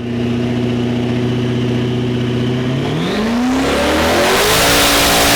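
Corvette V8 engine holding a steady note, then revving up sharply about three seconds in, its pitch climbing as the hiss grows louder.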